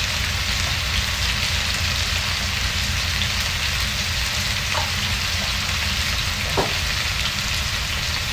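Squash, onion and chili pieces sautéing in oil in a wok, a steady frying sizzle over a low hum.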